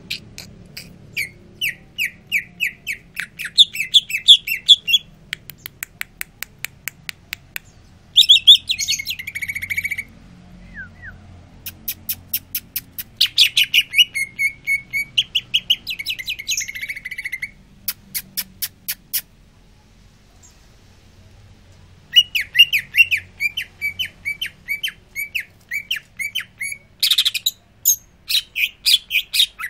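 Green leafbird (cucak ijo) singing busily: phrases of rapid chirps and runs of sharp clicking notes, broken by a few short pauses.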